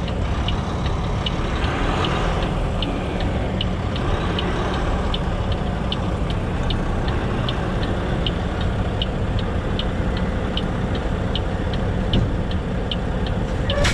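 Semi tractor's diesel engine running steadily as the truck backs under a trailer, with a sharp tick repeating about one and a half times a second. About twelve seconds in there is a single knock, the click of the fifth wheel locking onto the trailer's kingpin.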